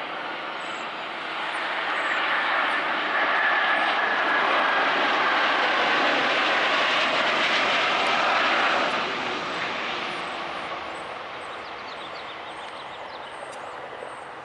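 Jet noise from the Airbus A340-300's four CFM56-5C4 turbofan engines as the airliner passes close on landing. The noise swells for a few seconds with a faint, slightly falling whine, then dies away.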